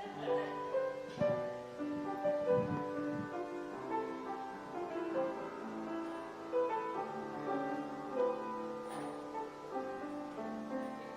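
Piano music: a slow tune of held notes and chords.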